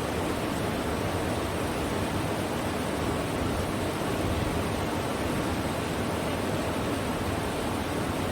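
Rushing river water, a steady, unbroken noise of rapids or falling water.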